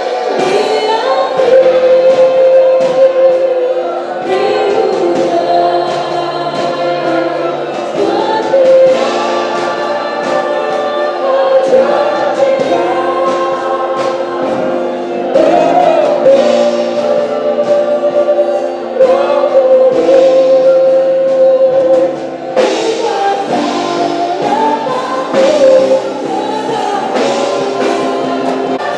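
Christian worship music: a group of voices singing a gospel song together over instrumental accompaniment with percussion hits.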